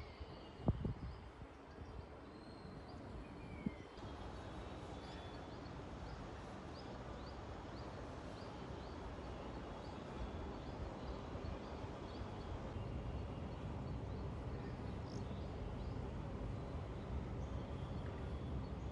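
Steady outdoor noise with short, high bird chirps over it; a few knocks in the first four seconds.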